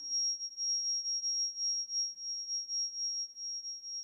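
A steady, very high-pitched electronic sine tone held without a break, its loudness wavering slightly.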